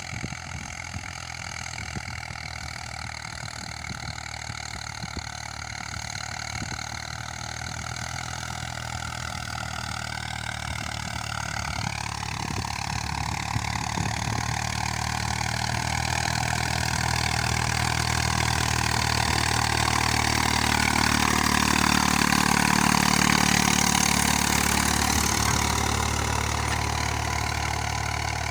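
Eicher 485 tractor's diesel engine running steadily, growing gradually louder through the second half and easing off slightly near the end.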